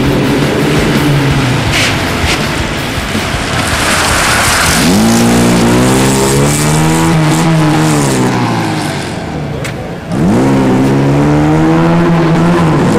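Competition car engine revving hard as the car accelerates through a slalom course: the engine note climbs steeply about five seconds in, falls away as the driver lifts, then climbs sharply again just after ten seconds.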